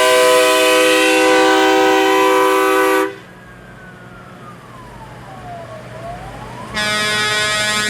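Multi-note train-style air horn blasting a long, loud chord that cuts off suddenly about three seconds in. In the quieter gap a faint siren-like tone falls and rises, then the horn chord sounds again near the end.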